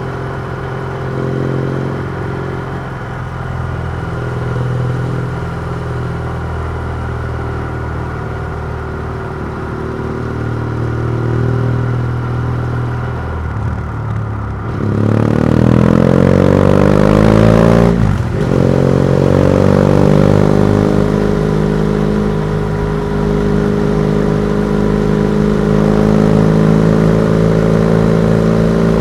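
BMW F700GS parallel-twin engine through a MIVV titanium exhaust with the dB killer removed, running steadily at moderate revs. About halfway through the throttle opens and the pitch rises for a few seconds. The sound briefly drops at a gear change, then carries on louder at higher revs.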